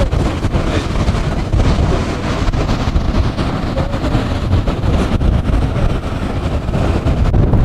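Wind buffeting the microphone aboard a moving riverboat: a loud, steady low rumble that flutters unevenly.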